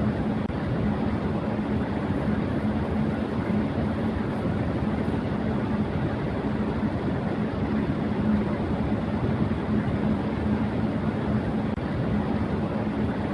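Electric fan running at high speed: a steady rush of air with a low hum underneath.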